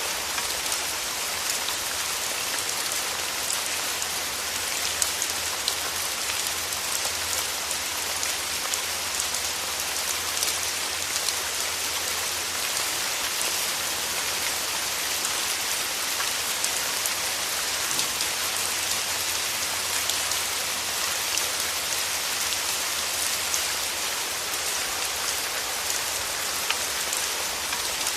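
Steady rain falling, a dense even hiss with many small drop ticks on a surface throughout.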